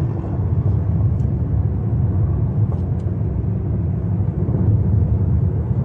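Steady low rumble of a car driving at freeway speed, heard from inside the cabin.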